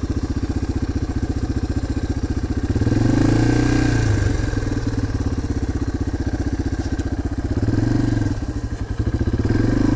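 Dirt bike engine running at low revs with a fast, even beat, the throttle opened up about three seconds in and again near eight seconds, then easing off briefly before picking up again.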